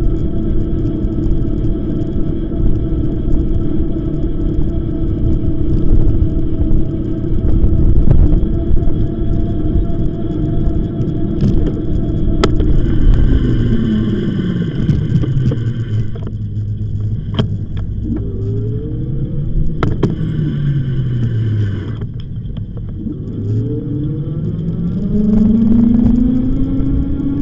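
Electric bike motor whining steadily under heavy wind rumble on the microphone. About halfway through the whine falls in pitch as the bike slows, then rises and falls again with speed, climbing near the end. A few sharp clicks are heard.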